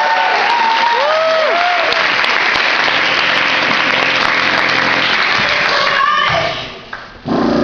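Audience applauding and cheering, with a few whoops in the first two seconds. The applause fades out about six and a half seconds in.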